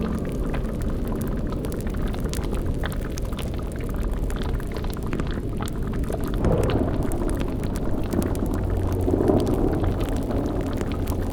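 Sound-effect cauldron of thick liquid bubbling and popping over a steady low rumble. A heavier gurgling surge comes about six and a half seconds in and another swells up near the end.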